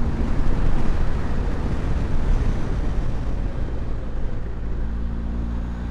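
Motorcycle engine running steadily while riding, mixed with wind rushing over a helmet-mounted microphone. The wind noise eases about four seconds in, leaving the engine tone clearer.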